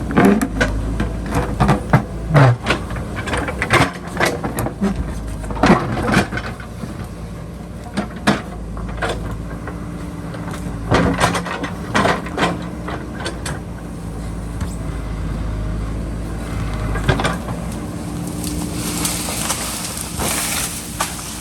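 JCB backhoe loader's diesel engine running steadily under load, with repeated clanks and scrapes as its steel bucket digs into rocky soil. Near the end a hiss rises over the engine.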